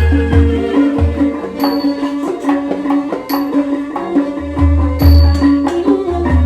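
Thai classical ensemble playing a hom rong overture: several melodic instruments weave over deep drum beats, with a short high ringing stroke about every second and a half.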